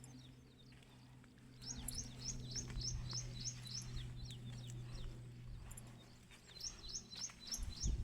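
A bird calling in two quick runs of short, high repeated notes, about four a second, over a steady low hum.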